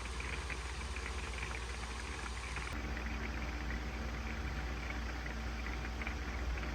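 Rain pattering steadily on the roof of a camper van, over a constant low hum.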